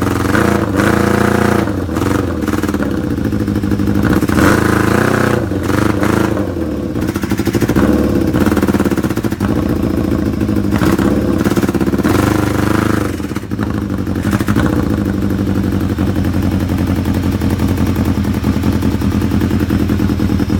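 A Yamaha YZF-R6 inline-four motorcycle engine, loud on a straight exhaust with no air filter. It is blipped up in several short revs over the first dozen seconds, then idles steadily. The owner says it is starving for fuel, with carburetion issues.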